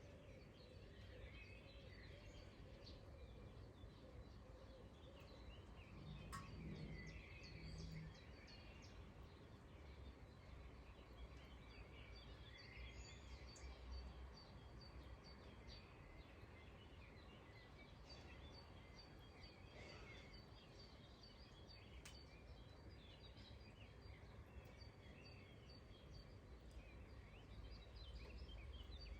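Faint outdoor ambience: distant birds chirping here and there over a low steady rumble, with a few faint clicks.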